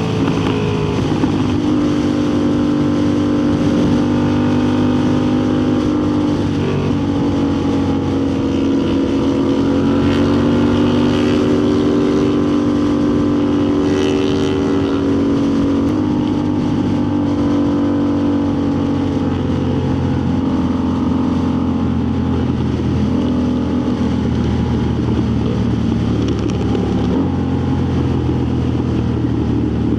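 Motorcycle engine running steadily while riding, with wind noise on the microphone. The engine pitch steps up or down a couple of times, about halfway through and near the end.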